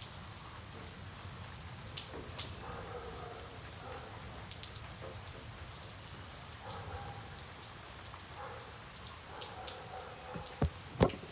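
Rain falling steadily, with individual drops ticking on a hard surface. Two sharp knocks near the end stand out as the loudest sounds.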